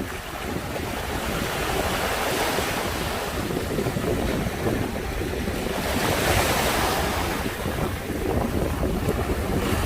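Sea surf breaking on the East Sea shore, a steady wash that swells twice, about two seconds in and again around six seconds. A low wind rumble runs on the microphone underneath.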